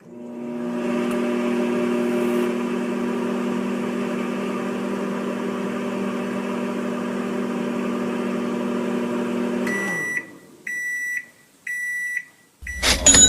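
Microwave oven running with a steady electrical hum for about ten seconds, then stopping and giving a few short high beeps about a second apart, the signal that heating is done. A loud, sudden sound cuts in near the end.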